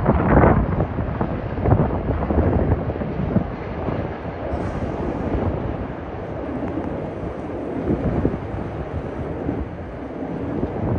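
Bombardier 5000-series rapid-transit train pulling away, its wheels clattering over rail joints during the first few seconds, then the rumble fading gradually as it leaves.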